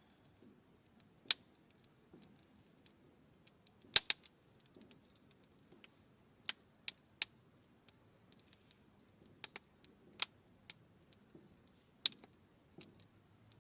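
Hardwood fire crackling, with sharp pops at irregular intervals.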